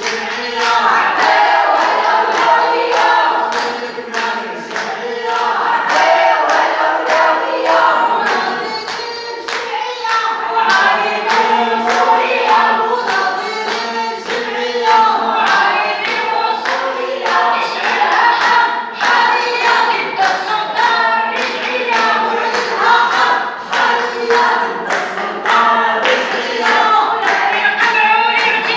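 A crowd of protesters chanting slogans together in unison, clapping their hands in time.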